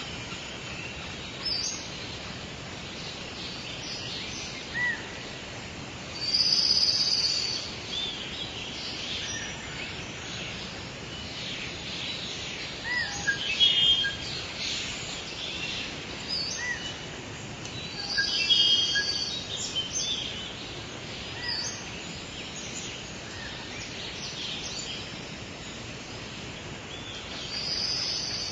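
Outdoor nature ambience: birds chirping and singing over a steady background hiss, with louder bursts of song every few seconds.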